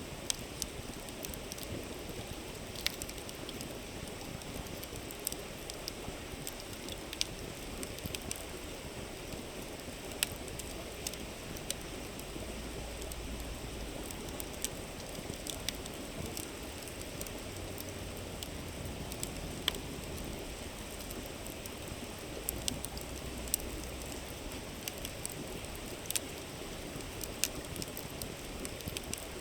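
Wood campfire crackling with scattered sharp pops at irregular moments, over the steady rush of a flowing river.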